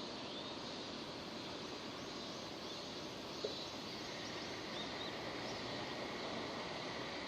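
Steady rain falling, an even hiss of drops, with a single drip or tap about three and a half seconds in and a few faint high chirps in the middle.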